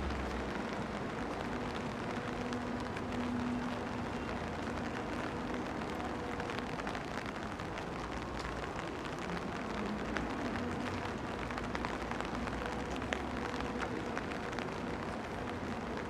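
Steady rain falling on a city street, with scattered drop ticks and a faint low hum of traffic underneath.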